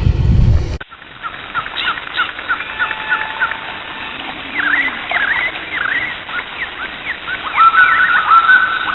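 Several wild birds singing and calling: quick runs of short chirps and slurred notes, then near the end a clear whistled phrase repeated several times. A low rumble of outdoor noise fills the first second before it cuts off abruptly.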